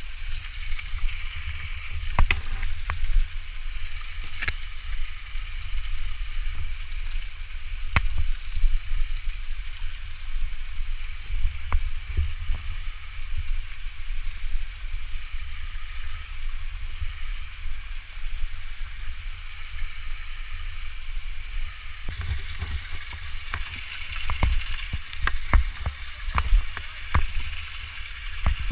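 Wind rumbling on the microphone over a steady hiss of falling water, with scattered sharp clicks and knocks from handling or gear.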